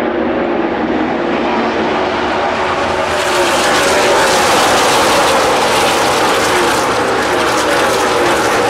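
NASCAR Nationwide Series stock cars' V8 engines running at speed as a pack goes by, many engine notes overlapping and sliding in pitch, getting louder about three seconds in.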